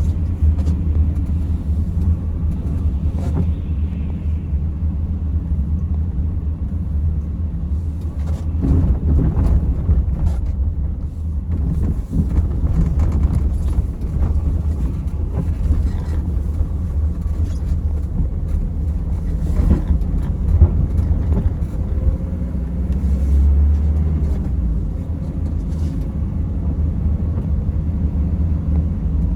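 Mercedes Sprinter van driving on a snowy road: a steady low rumble of engine and tyres, with scattered short knocks and clicks.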